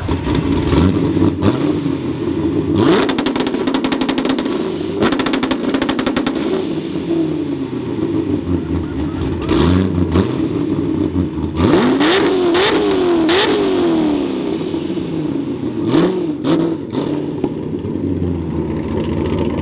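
A car engine held on a two-step launch-control rev limiter, giving two runs of rapid popping bangs a few seconds in. Later, engines rev up and down as cars pull away.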